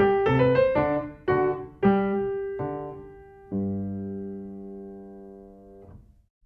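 Background piano music: a phrase of quick notes slows down and settles on a held chord about halfway through, which fades away near the end.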